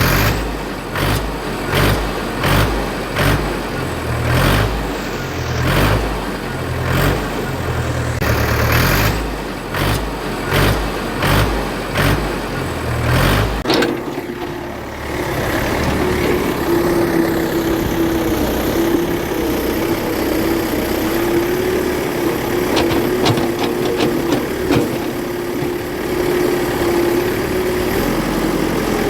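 Motor or engine sound: a rhythmic low chugging for about the first half, then it changes to a steady hum with a constant whine, with a few light clicks near the end.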